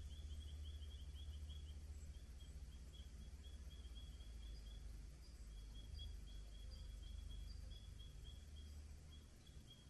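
Faint outdoor bush ambience: a steady low rumble under a high chirping call, repeated rapidly in short trains. The chirping breaks off for a moment around two seconds in and again near the end.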